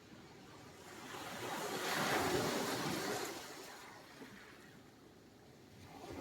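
Sea surf: one wave swells up, breaks with a hiss, and washes back down over a few seconds, with the next wave starting to build near the end.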